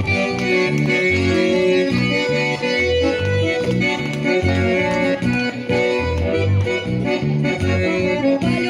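Bayan, a Russian button accordion, playing a chastushka tune without singing. Its held melody notes ride over a steady, regular pulse of bass notes and chords.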